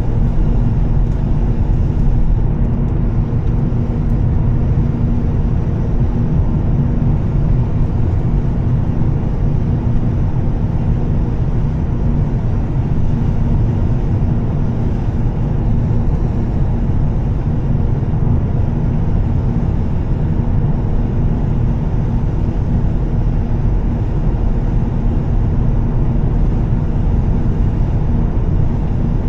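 2013 Volvo S60 T6's turbocharged inline-six with a Heico exhaust, driving at a steady speed: an even low drone with one constant tone, blended with road rumble and no change in revs.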